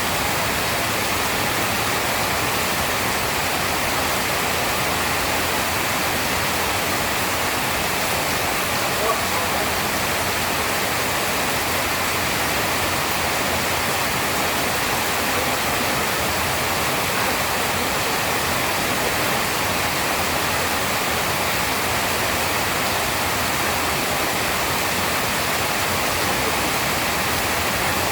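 Steady rain falling, a dense, even hiss with no thunder, and a single faint tick about nine seconds in.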